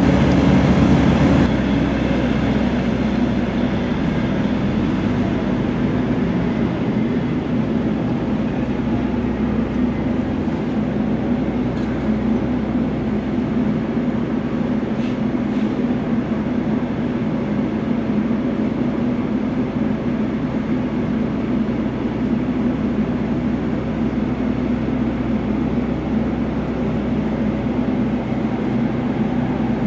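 Refrigerated trailer's diesel fridge unit running with a steady mechanical drone.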